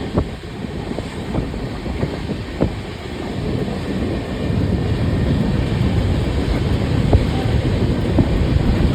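Passenger express train running on the rails: a steady rumble with scattered sharp clicks of the wheels over rail joints, growing a little louder about four seconds in.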